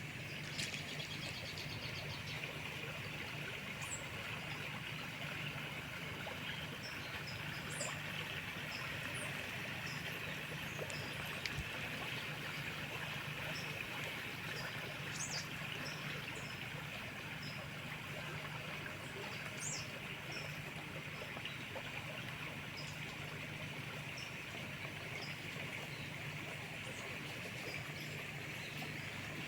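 Running river water with a steady rush, dotted throughout with short high chirps from birds.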